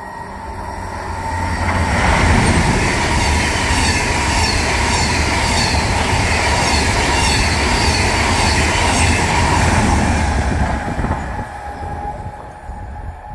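ICE high-speed train passing at speed through a station. The rush of wheels and air builds over the first couple of seconds, holds loud for about eight seconds with a steady high whine and a regular run of clicks, then fades as the train moves away.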